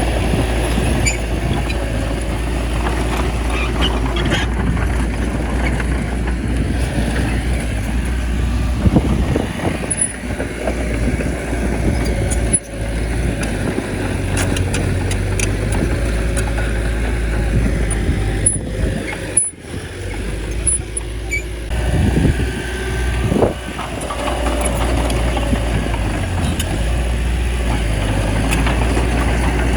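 Small crawler bulldozer's diesel engine running steadily under load, with a brief rise in pitch about three-quarters of the way through.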